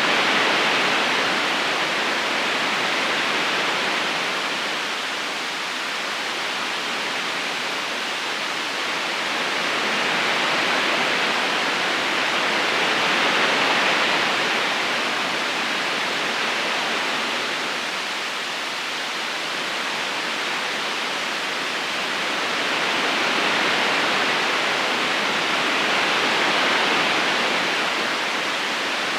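River current rushing steadily, a continuous hiss of flowing water that swells and eases slowly every ten seconds or so.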